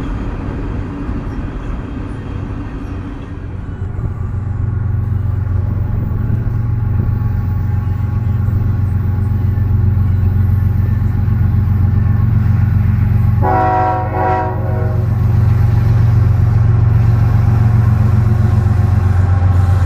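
Diesel locomotives of a Union Pacific freight train running past, their engine drone growing louder after a few seconds as the train approaches. A short horn blast about two thirds of the way through.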